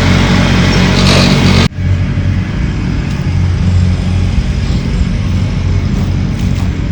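A motor vehicle's engine running steadily with a low hum; the sound drops out abruptly under two seconds in and picks up again straight away.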